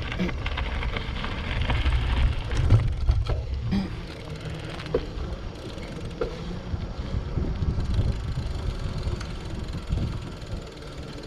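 Wind buffeting the microphone as a bicycle rolls along a road: a steady low rumble with a few knocks from the bike.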